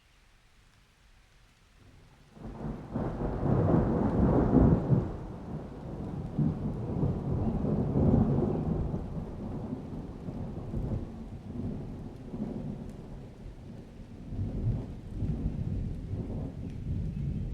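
Thunder rolling in with rain: a long low rumble that starts about two seconds in out of near silence, swells to its loudest around four and again around eight seconds, then keeps grumbling.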